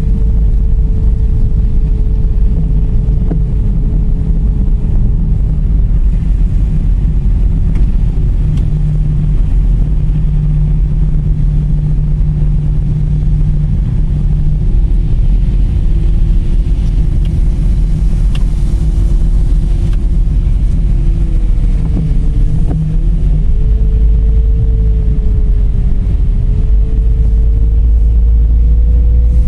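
Dodge Charger driving on the road: a heavy, steady rumble of tyres and running gear, with a whine that slowly sinks in pitch, then dips and climbs back again about three-quarters of the way through as the speed changes.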